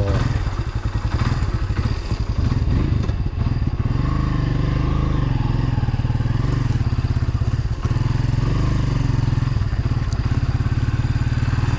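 Kawasaki W175's air-cooled single-cylinder engine idling with an even, steady beat, a little uneven in the first few seconds.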